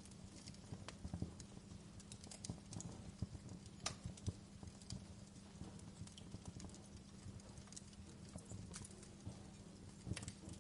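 Fireplace crackling: irregular small pops and snaps, faint, over a low steady hum.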